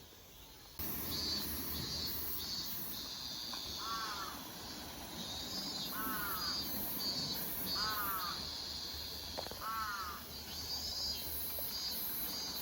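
A bird gives four short falling calls about two seconds apart over a steady, pulsing high-pitched insect chorus; the sound starts abruptly just under a second in.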